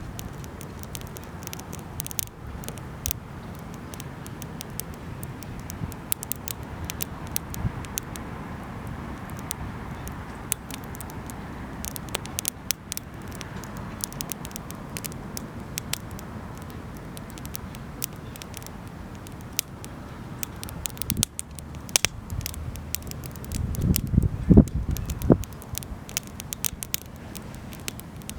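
Wood fire crackling, with irregular sharp pops and snaps over a steady low rush. Near the end a louder low rumble joins in for a couple of seconds.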